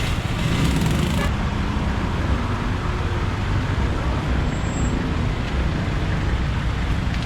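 City street traffic heard from a moving motorbike: a steady rumble of engines and road noise. A hiss in the first second or so cuts off suddenly.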